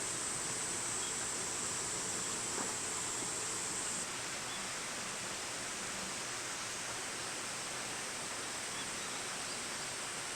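Steady outdoor background hiss with a thin, high-pitched steady whine over it that drops slightly in pitch about four seconds in, and one faint tick.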